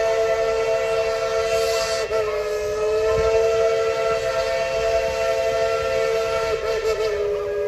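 Steam locomotive whistle of narrow-gauge No. 12 sounding one long, unbroken blast, a chord of several tones over a hiss of steam. Its pitch wavers briefly about two seconds in and again near the end.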